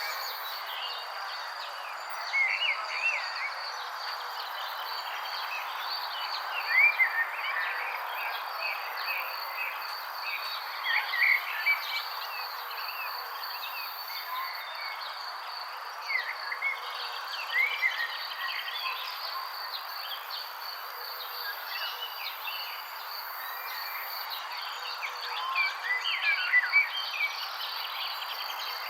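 Songbirds chirping in short, quick clusters every few seconds, loudest around seven and eleven seconds in and again near the end, over a steady high insect trill and an even hiss of outdoor background.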